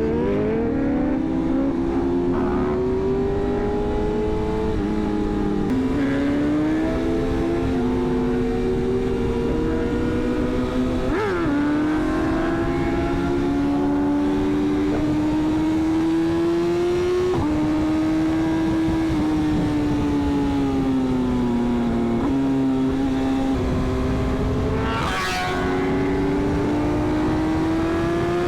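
Sport bike engine running at highway speed, its pitch slowly rising and easing with the throttle and jumping several times at gear changes, over steady wind noise. A single sharp crack comes near the end.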